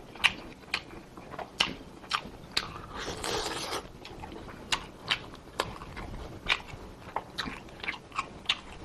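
Close-miked chewing and biting as braised pork rib meat is gnawed off the bone and eaten, with short sharp mouth clicks at an irregular pace of about one or two a second and a longer noisy stretch about three seconds in.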